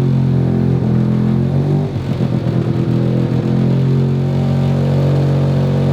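Single-rotor Mazda rotary engine, built from a 13B, running steadily as the car drives along, with a rough, uneven patch about two seconds in before the steady note returns.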